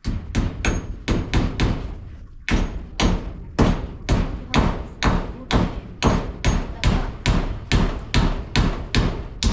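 A hammer driving nails with steady, quick blows, about three strikes a second, with a brief pause about two seconds in.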